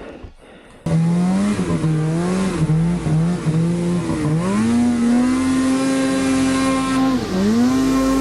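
Snowmobile engine running under load, starting abruptly about a second in. Its pitch climbs and holds high near the middle, then drops briefly and rises again near the end as the throttle is eased and reapplied.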